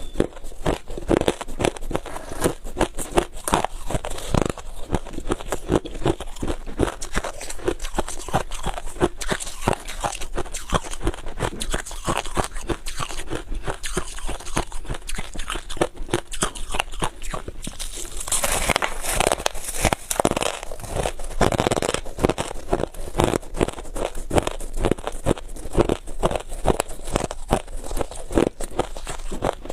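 Freezer frost being bitten and chewed: a dense, continuous run of crisp crunches, louder and brighter about two-thirds of the way in.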